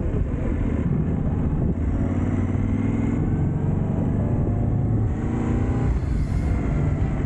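Yamaha Ténéré 700's parallel-twin engine running under way, its pitch rising and falling with the throttle and dropping once about six seconds in, as at a gear change.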